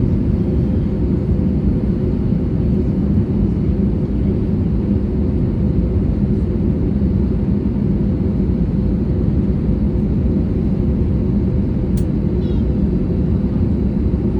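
Steady cabin noise of an Airbus A320neo: engine and airflow rumble with a low, constant hum, heard from inside the passenger cabin. A brief click about twelve seconds in.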